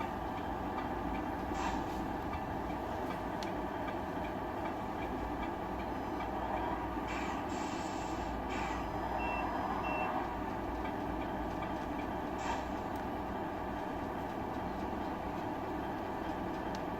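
Tamiya RC truck sound unit playing a diesel truck engine running steadily through its speaker, with a few short bursts of hiss and two brief high beeps about halfway through.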